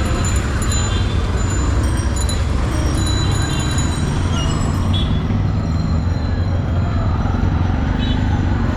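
Steady low rumble of a motorcycle ride in city traffic: wind buffeting the microphone over the bike's running engine and the road noise.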